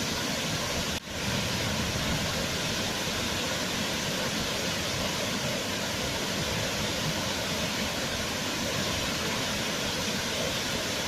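Waterfall: a steady, even rush of falling water, with a brief dip about a second in.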